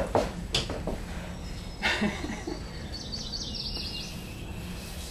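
A small bird chirping rapidly for about a second, some three seconds in, over steady outdoor background noise. A few footsteps knock on the wooden deck boards in the first second.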